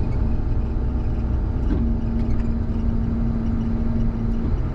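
Combine engine running steadily, with a constant low rumble and a steady hum that drops out briefly about a second and a half in and again near the end.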